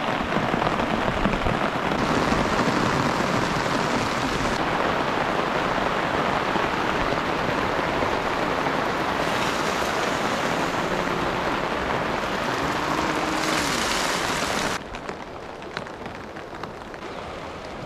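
Heavy rain falling steadily. About fifteen seconds in, it drops suddenly to a quieter level and keeps falling.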